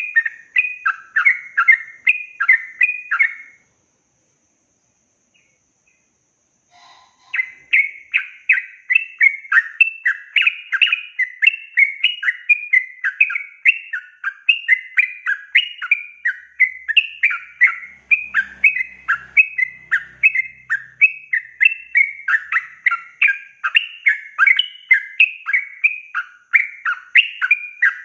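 Yellow-vented bulbul singing a fast, continuous chattering song, the long rolling 'ropel' song, several notes a second. The song breaks off about three and a half seconds in, leaving a few seconds of silence, then resumes and runs on without pause.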